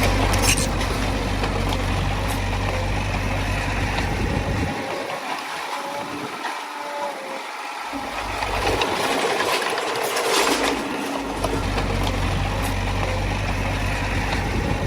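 Diesel engine of a Komatsu D20A bulldozer working, with a steady low engine note that eases off twice partway through, and a few sharp metallic knocks.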